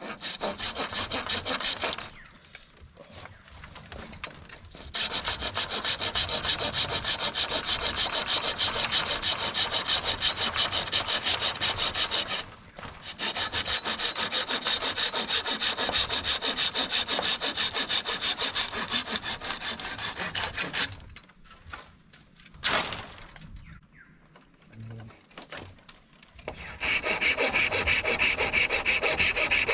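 Hand saw cutting through bamboo in fast back-and-forth strokes, in several long spells with short pauses between them. A single sharp knock comes during one pause, and a faint steady high insect drone shows in the gaps.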